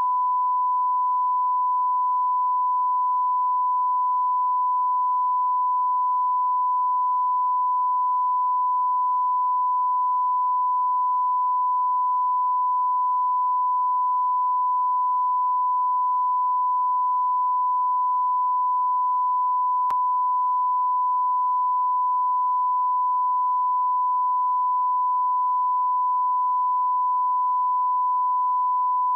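A single pure sine tone of about 1 kHz held at a steady level, like a test tone or censor beep, with a faint click about twenty seconds in.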